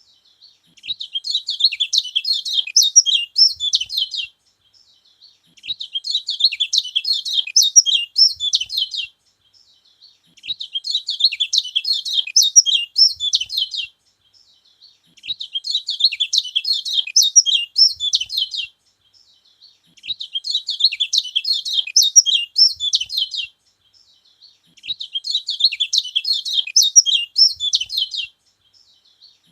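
Kecial kuning (a yellow white-eye) singing a fast, high twittering song in bouts of about three to four seconds, each followed by a pause of about a second, repeating at an even pace.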